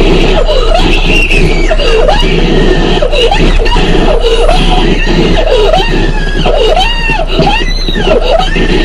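A child screaming and shrieking over and over in wild excitement at getting a longed-for present, with a steady low hum underneath.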